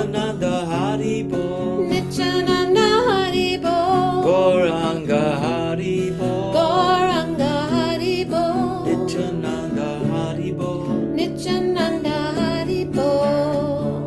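Kirtan: voices singing a devotional mantra chant in a wavering melody over a steady instrumental accompaniment with held low notes.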